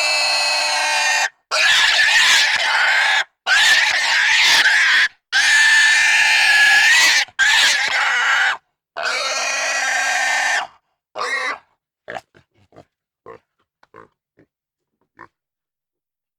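A run of loud, high-pitched animal squeals, about seven in all, each lasting one to two seconds with short silent gaps between, the last one brief. A few faint clicks follow near the end.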